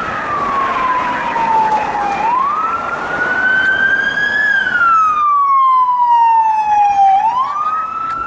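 Electronic police siren of an LAPD Ford Police Interceptor Utility sounding its wail on a code-3 response: a loud tone that falls slowly over about two and a half seconds, then sweeps quickly back up, twice, over steady road noise.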